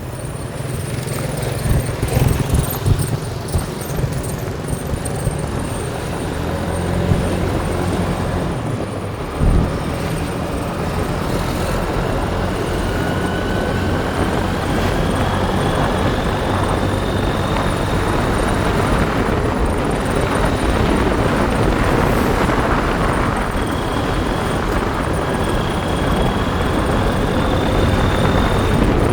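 Motorbike engine running while riding, with wind rushing over the microphone. The engine's pitch climbs slowly through the middle of the stretch as the bike speeds up.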